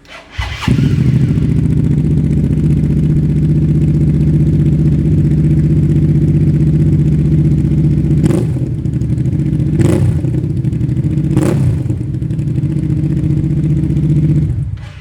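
Hyosung GV650's V-twin engine with a custom barrel exhaust, damn loud. It starts up with a short crank and catches almost at once, then idles with a deep, steady note. Three short throttle blips come in the middle, and the engine is switched off near the end.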